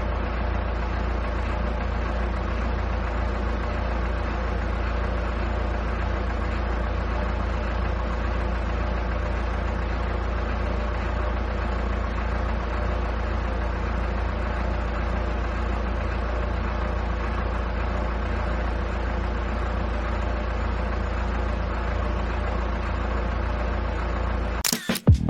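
A steady mechanical drone, like an engine idling, that holds an even level and is strongest in its deep low end, then stops abruptly near the end.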